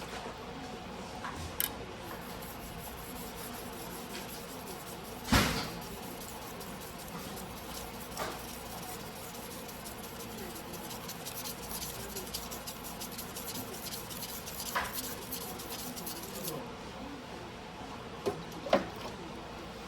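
Steel knife blade scraping back and forth on a wet whetstone during hand sharpening, with one loud knock about five seconds in and a few lighter clicks.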